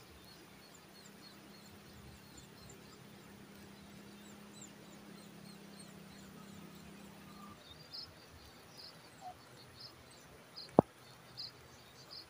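Faint outdoor ambience of short, high chirps repeating a few times a second, over a low steady hum that stops a little past halfway. A single sharp click comes near the end and is the loudest sound.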